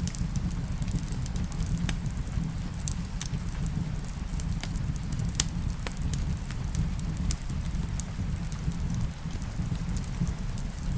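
Wood fire burning in a fireplace: a steady low rumble with irregular sharp crackles and pops, one louder pop about halfway through.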